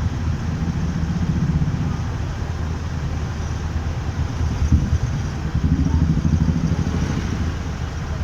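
Motorcycle running under way in city traffic: a steady low engine and road rumble that swells a little around the middle.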